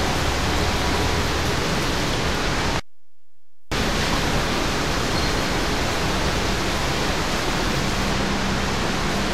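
SMRT C651 electric train at the platform, a steady rushing noise from its running equipment as it creeps along. The sound drops out abruptly for under a second about three seconds in, and a faint low hum comes in near the end.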